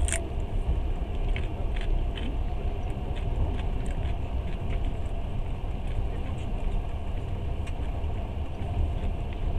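Passenger train running at speed: a steady low rumble of wheels and carriage, with scattered light clicks and rattles.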